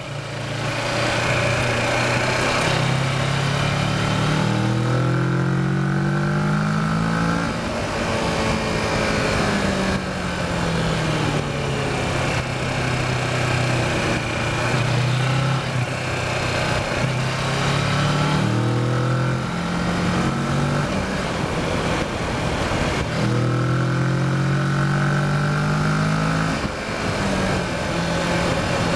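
Kawasaki Versys motorcycle engine pulling hard between corners, its pitch climbing and then dropping off several times as the rider accelerates and backs off, over steady wind and road rush.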